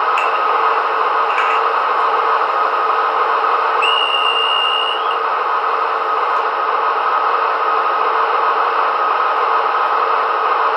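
Digital sound decoder in a Märklin VT 11.5 model diesel train playing its diesel motor sound through the small loudspeakers, steady throughout. About four seconds in, a single high whistle sounds for just over a second.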